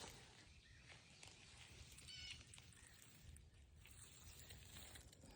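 Near silence, broken about two seconds in by one brief, high-pitched animal call.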